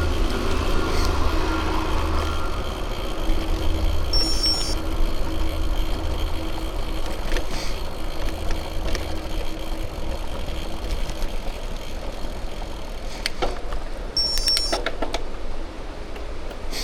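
Bicycle tyres rolling on the road with wind on the microphone: a steady rushing noise, a low rumble that fades after a few seconds, and a few sharp clicks and rattles from the bike near the end.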